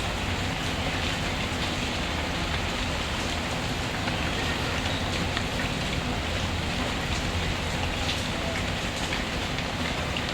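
Steady rain falling, mixed with the scattered sharp crackles of a wood fire and a low rumble underneath.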